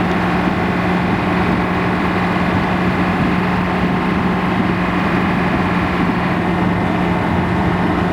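A vehicle's engine running steadily, with a constant low drone and no change in speed.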